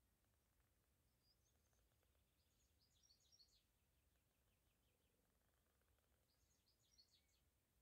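Faint bird song: two short bursts of quick high chirps, one about three seconds in and another near the end, over a low, steady background hiss.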